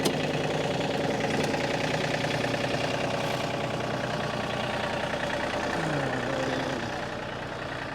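Tractor engine running steadily, with a sharp click right at the start; it eases off a little near the end.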